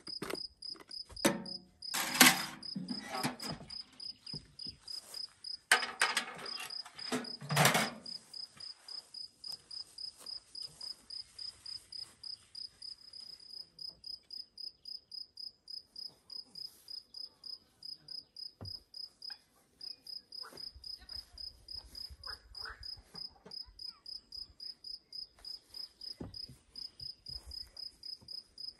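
A cricket chirping steadily, short high-pitched chirps at about three a second. A few louder knocks and rustles come in the first eight seconds, about two seconds in and again around six to eight seconds.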